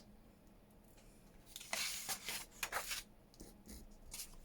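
Sheets of paper rustling as they are handled and shuffled, in a burst of about a second and a half, followed by a few light taps.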